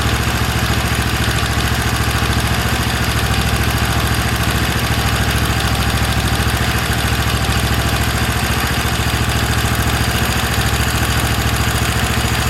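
Chinese-made 125 cc single-cylinder four-stroke engine with bottom electric starter running steadily at idle on a bare test bench, during its break-in run.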